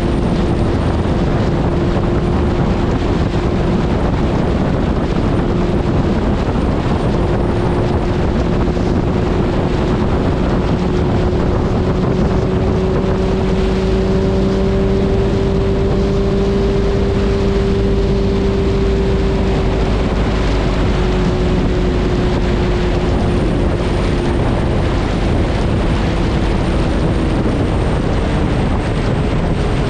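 Suzuki Hayabusa's inline-four engine running at a steady highway cruise under heavy wind noise. Its note climbs slowly toward the middle and eases back down near the end.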